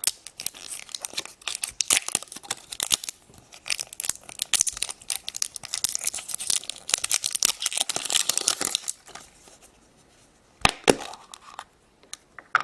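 Wrapper of a Chupa Chups Lollipop Surprise being torn open and crinkled by hand: dense crackling for most of the time, then it quiets, with a couple of sharp clicks near the end.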